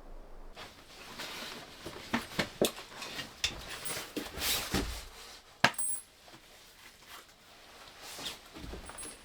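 A run of clicks, knocks and light clinks from small hard objects being handled, some with a brief high ring. They are densest in the first half, the sharpest about five and a half seconds in, and fade to occasional soft knocks.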